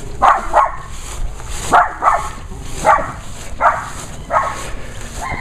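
Dog barking repeatedly, about eight loud barks, some in quick pairs, roughly one a second.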